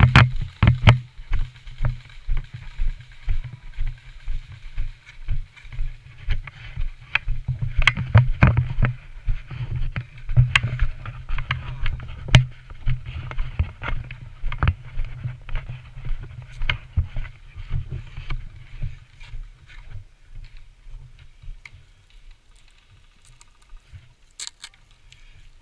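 Body-worn camera knocked and rubbed by its wearer's movement: repeated low thuds about two a second, with sharp clicks among them, easing off near the end.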